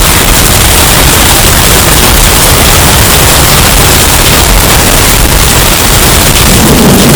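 Hurricane wind and rain sound effect, bass boosted until it clips into harsh distortion: a loud, steady wall of rushing noise, with a deeper rumble swelling near the end.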